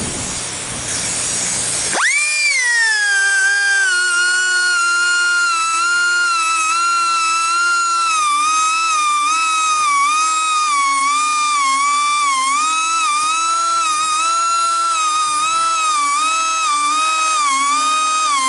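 Bandsaw blade sharpener grinding the blade's teeth. A hissing grind for about two seconds, then a high motor whine whose pitch drops and then dips regularly about once a second as each tooth is ground.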